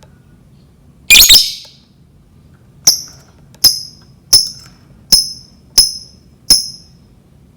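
Lovebird calling: one harsh, loud burst about a second in, then six short, sharp, high-pitched chirps evenly spaced about two-thirds of a second apart.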